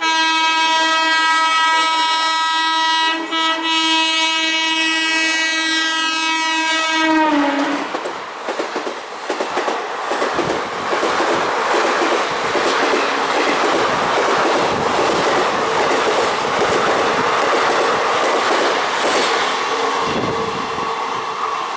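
An Indian Railways train's horn blown as one long, loud note for about seven seconds, dipping in pitch as it stops. It is followed by the rushing clatter of coaches passing at high speed over the rails.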